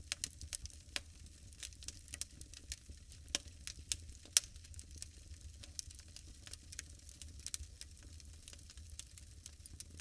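Wood fire crackling in a fireplace: irregular sharp pops and snaps over a low rumble, with one louder pop a little past four seconds in.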